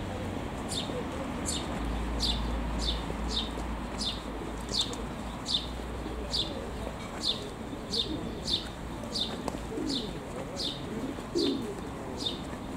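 A small bird calling a short, high note that slides down in pitch, repeated over and over about every half second to second, over a steady low background rumble.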